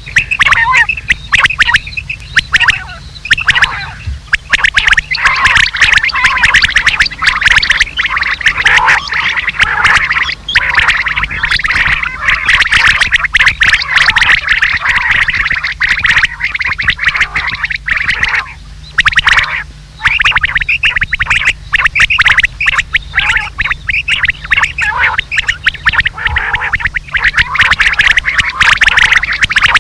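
Recorded quail calls, used as a hunting lure, playing loud and harsh: a dense, fast run of repeated calls with a couple of brief pauses.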